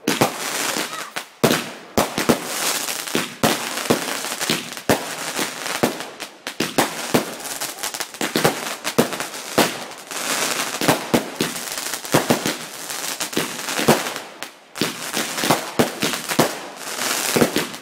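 Fireworks going off in a rapid, continuous barrage: dense crackling with many sharp bangs, several a second, easing briefly twice.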